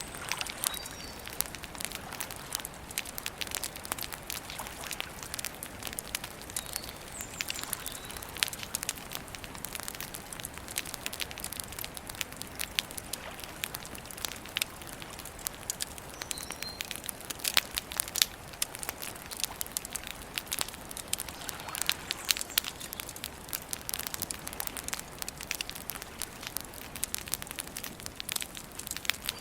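Wood campfire crackling steadily, thick with sharp clicks and occasional louder pops. A few faint, short high chirps, likely birds, come through now and then.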